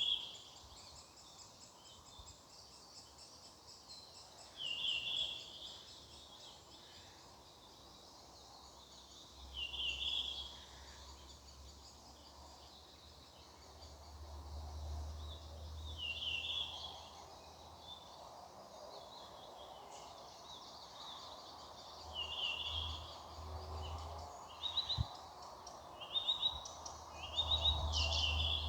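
Several songbirds singing in a birch wood. One bird repeats a short song phrase about every five seconds, coming faster near the end, over continuous high twittering from others. A low rumble runs underneath from about ten seconds in.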